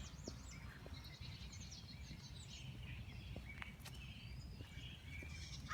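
Faint high chirps and short calls of small birds scattered throughout, over a low steady outdoor rumble.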